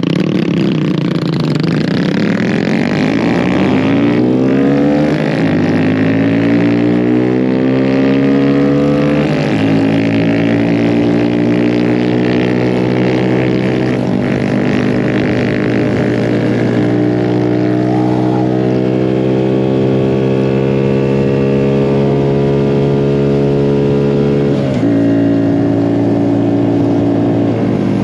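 Mini bike engine under way, accelerating up through the gears. Its note climbs, then drops sharply at each upshift, four times in all, and holds fairly steady at cruising speed between the later shifts.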